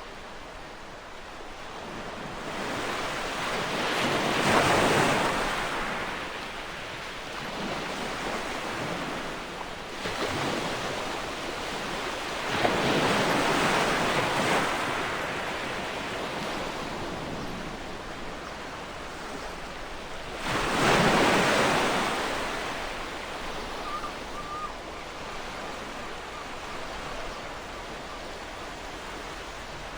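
Ocean waves breaking on a shore: three waves surge in and wash back, peaking about five seconds in, again around thirteen seconds and once more around twenty-one seconds, over a steady hiss of surf.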